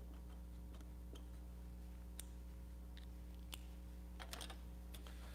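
Quiet room tone: a steady low electrical hum with about eight faint, short clicks scattered through it.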